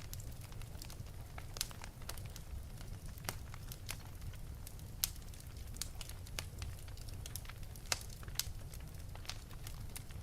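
Wood fire burning in an open fireplace: a low steady rumble of the flames with irregular sharp crackles and pops, a few louder ones standing out.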